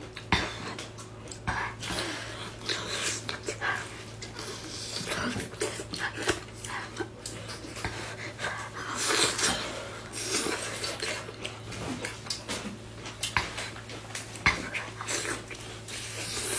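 Close-up wet chewing and slurping of a whole cooked octopus, with sucking, breathy mouth sounds and many irregular small clicks, over a steady low hum.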